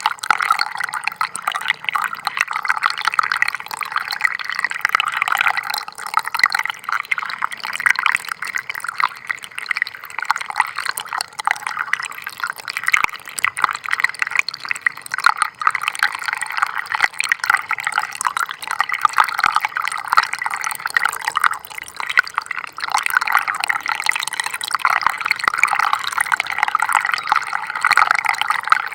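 Gently flowing stream water trickling and bubbling steadily, a dense patter of small splashes with no pauses.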